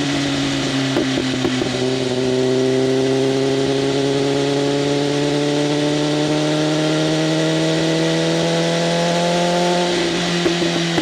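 BMW M1000RR's inline-four engine through an SC-Project CRT exhaust with its flaps open, pulling under load with the revs climbing slowly and steadily for several seconds, then easing off near the end.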